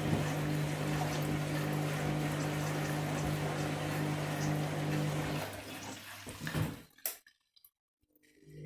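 Candy washing machine running with a steady hum and water sloshing. About five and a half seconds in it winds down, gives a couple of clicks and goes silent for about a second, then starts humming again near the end.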